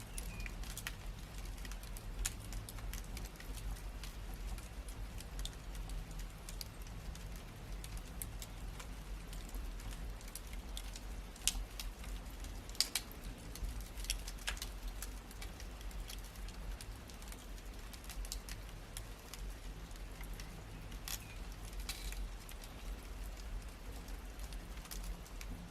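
Wood fire in a fireplace crackling: irregular pops and snaps over a low steady rumble, with a few louder snaps in the middle.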